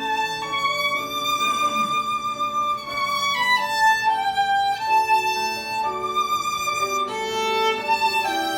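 Violin playing a slow melody of long held notes that step from pitch to pitch, some sliding down into the next.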